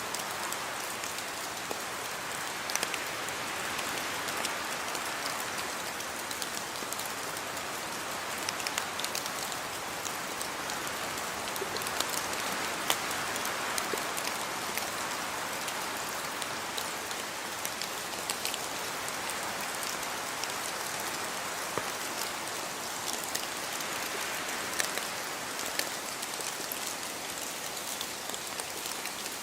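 Steady rainfall: an even hiss with many individual drops landing as sharp taps.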